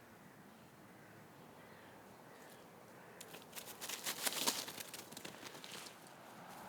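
A burst of dry crackling and scratching, such as a cat's claws and paws make on bark or dry leaves, starting about three seconds in, loudest midway and tailing off near the end. Faint bird chirps sound softly before it.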